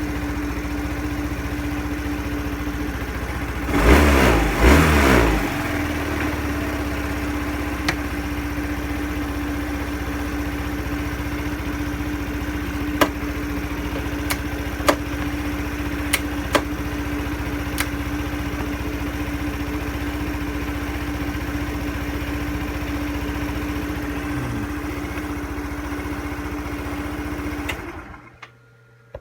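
Yamaha Cygnus X scooter's single-cylinder four-stroke engine idling steadily after a valve-clearance (tappet) adjustment. It is blipped twice about four seconds in, and there are a few sharp clicks. The engine is switched off near the end.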